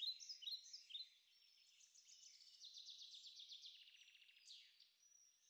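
Faint songbird calls: a few short falling chirps in the first second, a rapid trill a couple of seconds in, and one rising note near the end.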